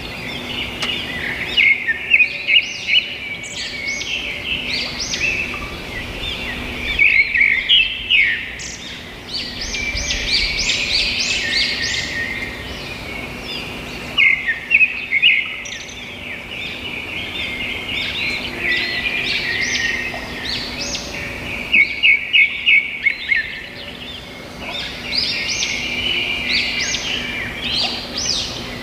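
Small birds chirping and twittering steadily, with louder clusters of quick, high chirps about every seven seconds.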